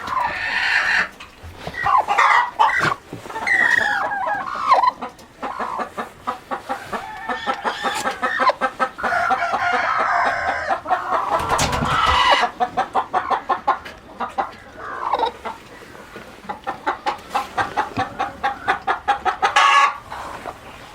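Chickens clucking, with long runs of quick, evenly spaced clucks.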